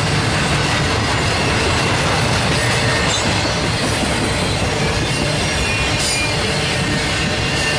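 Intermodal freight train's flatcars loaded with truck trailers rolling past: a steady rumble and clatter of steel wheels on rail, with faint high wheel squeals near the end.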